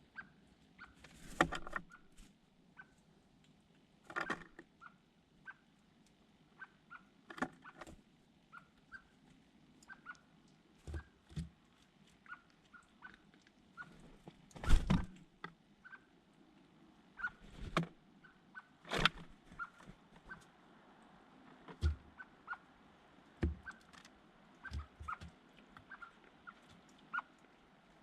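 Small birds giving short, repeated chirps, with irregular knocks and thumps every second or two, the loudest about halfway through.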